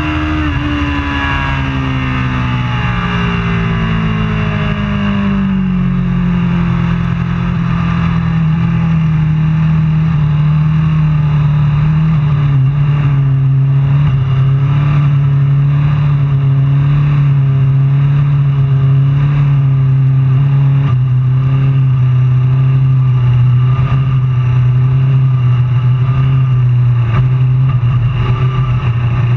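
Superbike racing motorcycle engine running loudly; its pitch falls over the first few seconds, then it holds a steady speed.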